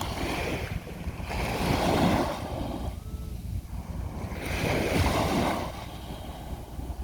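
Sea waves breaking on a beach: two swells of surf, each building and washing out over about a second, a few seconds apart, over a steady low rumble of wind on the microphone.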